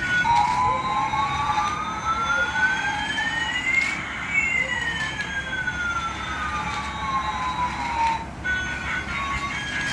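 Electronic siren wailing once: one slow rise in pitch over about four seconds, then an equally slow fall.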